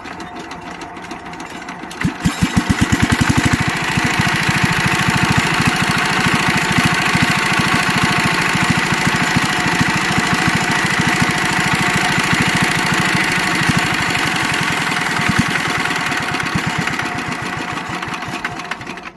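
A 16 hp Kirloskar diesel engine catching about two seconds in with loud, evenly spaced knocks, then settling into a steady, regular running beat.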